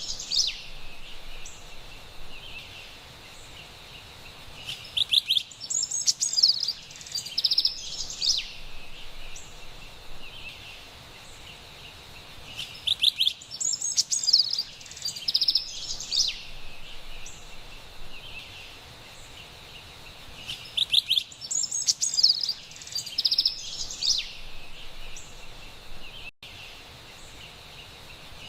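Carolina wren singing in bouts of fast, repeated ringing phrases, one bout about every eight seconds, each lasting about three seconds. A faint steady high hum runs underneath between the songs.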